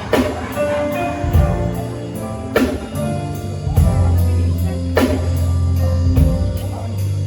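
Live band playing an instrumental groove: drum kit with a strong hit about every two and a half seconds, over a bass line and held keyboard chords.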